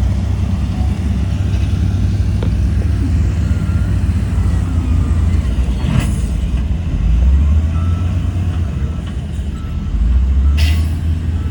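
Heavy diesel earthmoving machinery running with a steady low rumble that swells twice, with a sharp knock about halfway through and another near the end.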